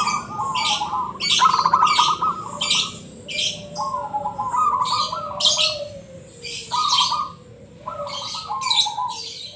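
Zebra dove (perkutut) cooing in rolling, trilled phrases of about a second each, several times over. Quick high chirps from another small bird repeat alongside, about twice a second.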